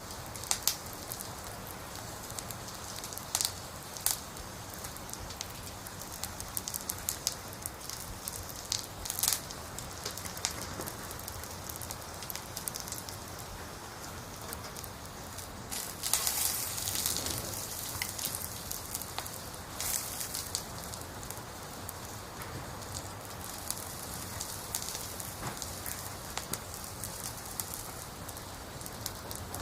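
Rain falling on a hard surface: a steady hiss with many sharp drop taps, and a heavier burst about halfway through.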